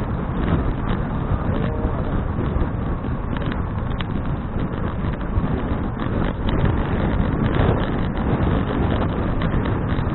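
Steady wind rush buffeting an action camera's microphone while riding a bicycle, a dense low noise at an even level throughout.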